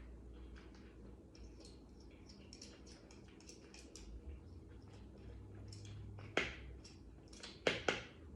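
Quiet handling sounds: faint scattered clicks and crinkles, with a few sharper taps or clicks about six seconds in and again near the end, over a faint low hum.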